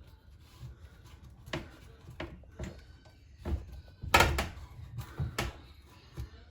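A series of knocks and clunks from hand-tightening sink drain parts under a bathroom vanity, with the parts bumping against the cabinet; the loudest thump comes about four seconds in.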